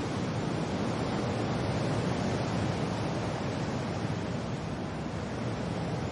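Steady rush of wind and rain, an even dense noise heaviest in the low range, swelling slightly about two seconds in.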